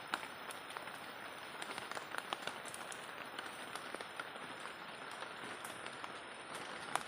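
Steady rain: an even hiss with scattered sharp taps of drops striking nearby surfaces, one louder tap near the end.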